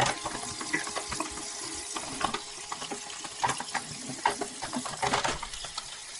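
Water running and splashing, with irregular crackles and small clicks.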